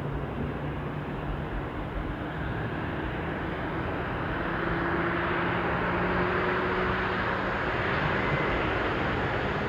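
Jet airliner on approach to land, its engine noise a steady rumble with faint droning tones, growing louder about halfway through as the aircraft draws closer.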